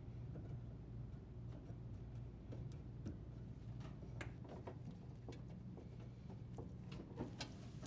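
Faint, irregular clicks and ticks over a low steady hum, from the dishwasher's leveling legs being adjusted to lower the appliance.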